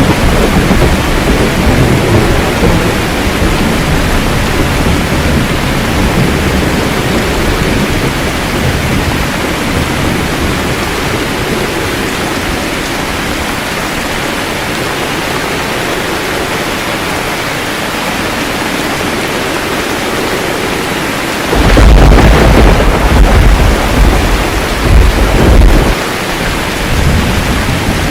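Steady heavy rain with thunder. A low rumble fades over the first several seconds, then a loud thunder rumble breaks in about three quarters of the way through and rolls on for several seconds with a couple of peaks.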